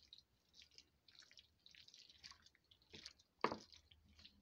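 Faint wet squishing and small clicks of a spoon stirring thick casserole filling in a dish, with one louder knock of the spoon about three and a half seconds in.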